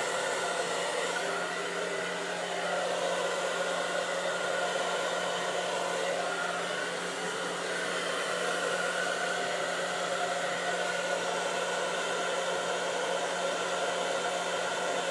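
Hand-held hair dryer running steadily, a continuous blowing hiss with a low motor hum.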